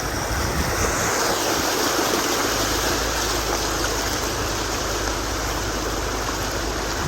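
Steady rush of floodwater splashing around a car driving through a flooded street.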